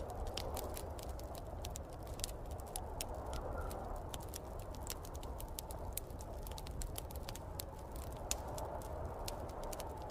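Wood fire crackling in a fireplace, with quick irregular pops and snaps throughout, over a steady low rumble and the wavering whoosh of snowstorm wind.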